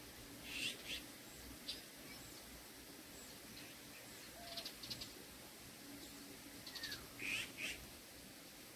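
Birds chirping: a few short high calls about a second in, a quick trill in the middle and a louder cluster of calls and trills near the end, over faint outdoor background noise.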